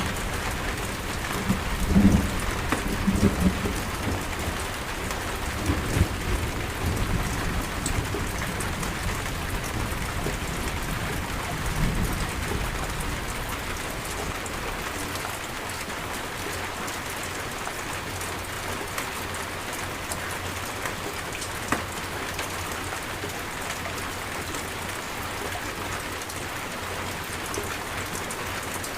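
Steady heavy rain pattering, with rolling thunder rumbling low in the first half that dies away by about twelve seconds in, leaving the even rain.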